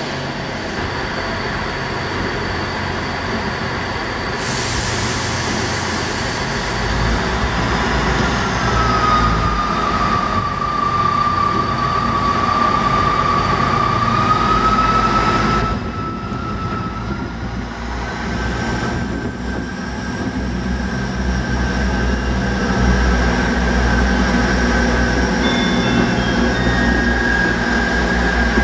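Diesel multiple-unit trains running slowly through a station, with steady engine rumble and wheel noise on the rails. A long steady whine sounds through the middle and stops abruptly.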